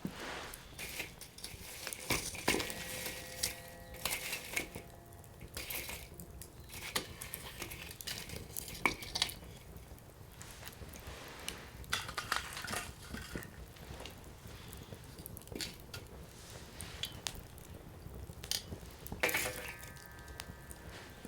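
Firewood burning in a Coleman Fire Disc steel fire pit, crackling with frequent sharp snaps and pops. Twice, about two and a half seconds in and again near the end, a short metallic ring sounds.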